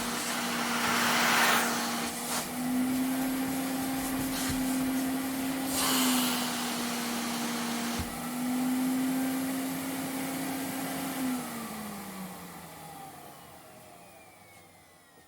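Vacuum cleaner running with a steady motor hum and rushing airflow that surges louder twice. Near the end the hum drops in pitch and fades away as the motor winds down.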